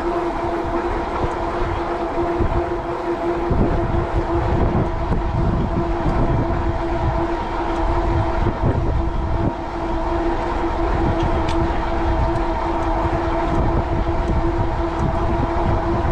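Wind buffeting the microphone on a moving e-bike, with a steady whine from the Cyrusher Kommoda's 750-watt Bafang rear hub motor underneath. The wind rumble grows heavier about three and a half seconds in.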